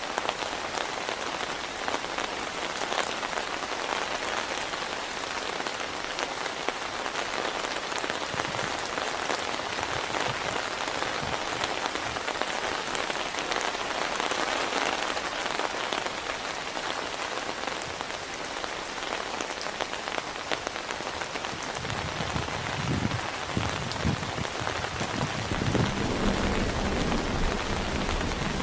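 Heavy rain falling steadily, a dense patter of drops. In the last several seconds a low rumble of thunder builds beneath it.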